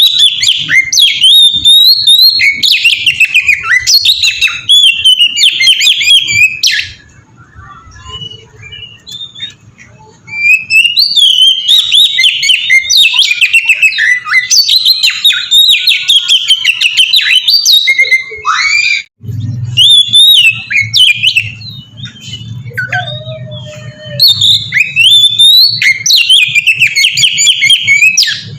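Oriental magpie-robin singing a loud, fast, varied song of whistled and rattling phrases in long bouts, with a quieter stretch about seven seconds in and a short break near the end of the second bout. A faint low hum runs under the song in the last third.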